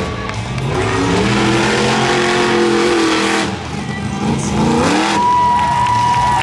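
Monster truck engine revving up and down hard through a freestyle run, its pitch rising and falling several times. A steady high-pitched tone joins about five seconds in.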